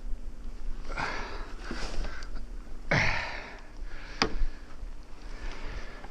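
Close-up sniffing and heavy breathing of a person exerting themselves in deep snow, with short scuffing noises and a sharp click about four seconds in.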